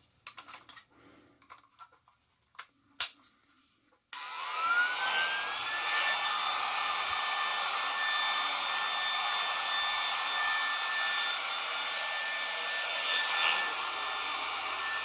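A few handling clicks, one of them sharp, as the clipper is readied. About four seconds in, the Remington HC6550 cordless vacuum hair clippers switch on. Their whine rises quickly, then holds steady, the blade motor and built-in vacuum fan running together.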